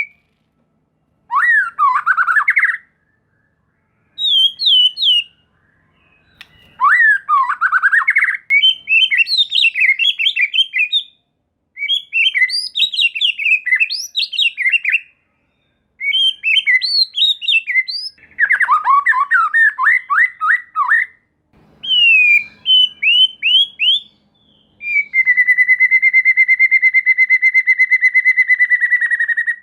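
White-rumped shama (murai batu) singing: bursts of loud, rapid whistled notes and trills with quick upward and downward pitch sweeps, separated by short silences. Near the end comes one long, steady rattling trill held on one pitch for about five seconds.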